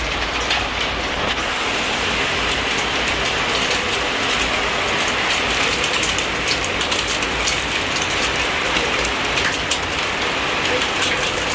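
Hail and rain pelting window glass: a steady hiss of rain with many sharp ticks of hailstones striking the pane.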